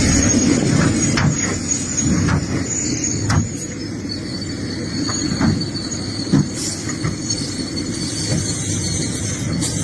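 Excavator running while digging rocky soil: a steady low engine drone with a thin, high metallic squeal over it and scattered sharp knocks of rock and steel.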